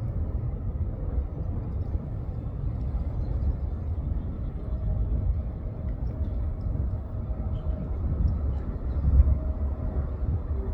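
Distant jet cargo airliner: a steady low rumble of its engines with a faint whine, swelling slightly near the end.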